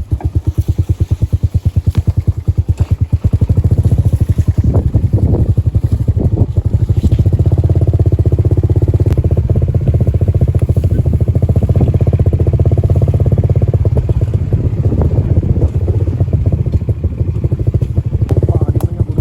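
Motorcycle engine running close to the microphone, a fast, even putter of exhaust pulses with no break.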